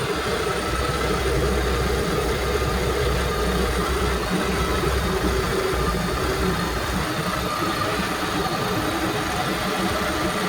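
Used Yamaha MR-1 four-stroke marine engine idling steadily on a flushing hose during its first run after installation.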